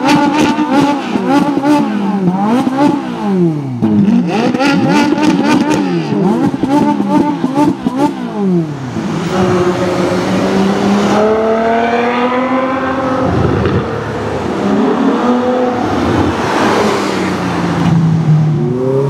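Ferrari 458 Italia's V8 revved in quick blips while standing still, its pitch swooping up and down about once a second. From about eight seconds in, a Ferrari accelerates hard through the gears: the pitch climbs, drops at each upshift and climbs again as the car goes by.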